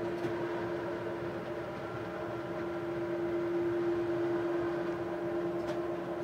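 Train running at steady speed, heard from inside the carriage: a constant hum with fainter overtones over rolling noise, with one faint click near the end.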